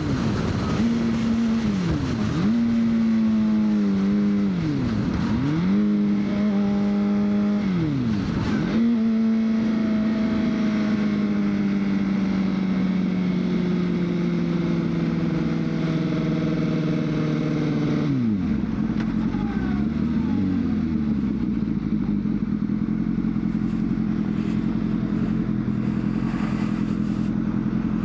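2003 Honda CBR600RR's inline-four engine on the move: a steady engine note broken by several quick dips in pitch over the first nine seconds, then a slowly falling note as the bike eases off, dropping to a low rumble about eighteen seconds in.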